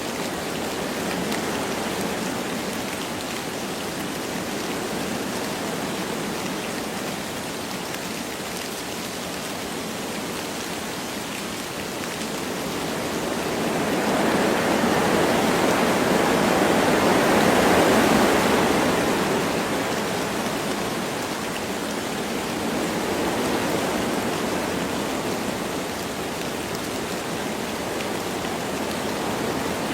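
Wind blowing through forest trees with light rain falling, a steady rushing hiss. About halfway through, the wind rises in a gust that builds for several seconds and then dies back.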